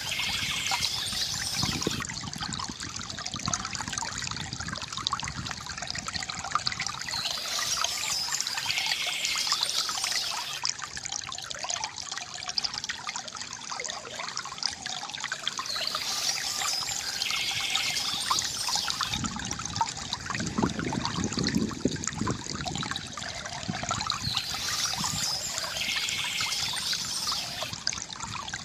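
Water trickling and gurgling steadily from a bamboo fountain. Short bursts of high bird chirping come about every eight seconds, and a deeper gurgle comes about two thirds of the way through.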